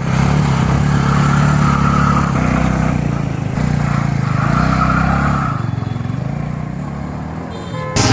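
Suzuki Gixxer SF 250's single-cylinder engine and exhaust running, louder through the first five seconds and quieter near the end.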